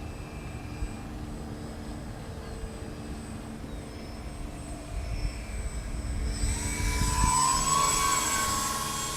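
Electric motors and propellers of an E-Flite P-38 Lightning RC model plane whining in flight. The whine is faint at first, then swells about two-thirds of the way in as the plane comes close.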